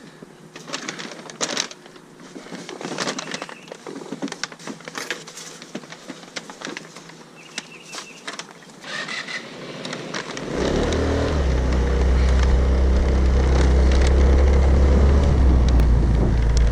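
Rustling, clicking and clattering of bags, boxes and electronic gear being handled, then, about ten seconds in, a vehicle engine starts a loud, low, steady drone that runs on to the end.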